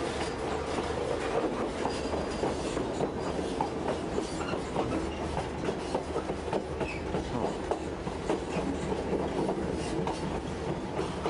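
Narrow-gauge passenger train in motion: a steady rumble and clatter of the coach's wheels on the rails, with many small scattered clicks, heard from the open end platform of the car.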